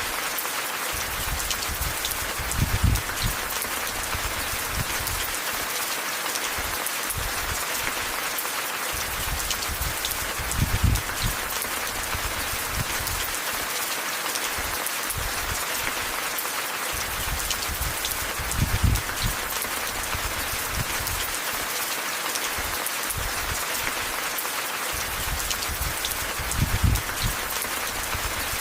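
Steady rain falling, a dense even hiss, with a short low thump or rumble about every eight seconds, four times.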